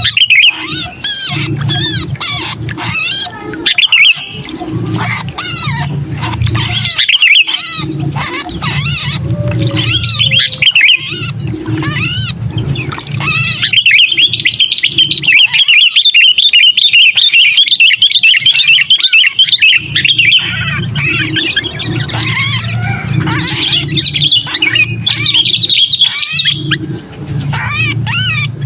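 Sooty-headed bulbuls (kutilang) giving fast, harsh chattering calls, the 'kejepit' call of a bulbul caught and held, used as a lure. The chirps come in quick runs, and about halfway through they merge into one unbroken rapid chatter lasting several seconds.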